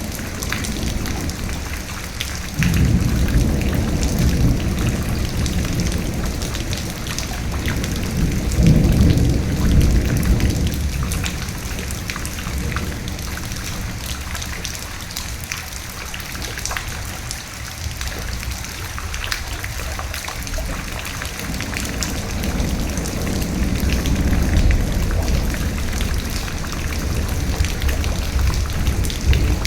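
Steady heavy rain with individual drops ticking sharply, under rolling thunder. A low rumble breaks in suddenly about three seconds in, swells again around nine seconds and dies away. Another rumble builds in the second half.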